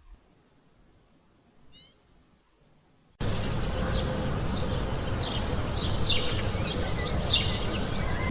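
A small bird calling: one faint high chirp, then from about three seconds in a run of short, high, falling chirps over a steady outdoor noise.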